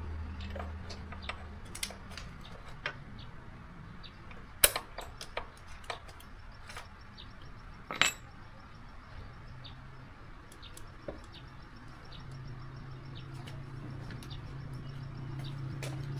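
Light metallic clinks and taps of small metal parts being handled, scattered and irregular, the two loudest about four and a half and eight seconds in. A low hum rises in the background near the end.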